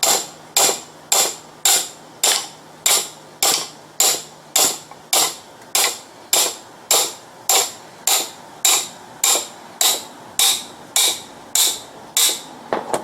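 Steady hand-hammer blows on steel, about two a second, each hit ringing sharply, hammering on the Chevy Astro van's upper control arm and its bushing to work the stuck parts loose.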